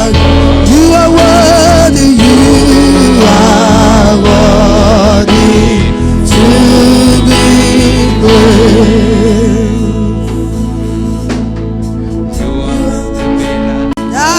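Gospel praise music: singers with vibrato over a live band with a steady bass, the accompaniment thinning out about two-thirds of the way through.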